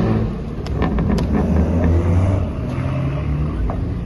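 Car engine running at low revs, a steady low drone, with a couple of sharp clicks about a second in.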